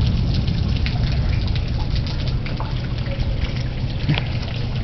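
Steady thunderstorm rain, with many separate drops ticking over a low, continuous rumble.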